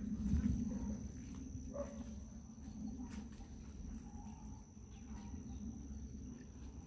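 An insect trilling steadily on one high tone, over a low rumble.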